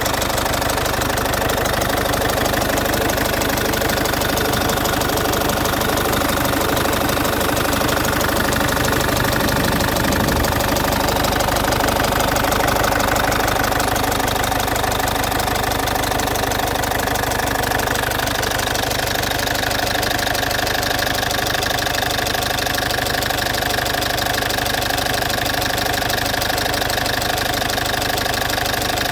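Citroën C5's 2.0 HDi 100 kW four-cylinder common-rail diesel engine running steadily, loud, with a ticking that the owner suspects comes from around the injectors but cannot place.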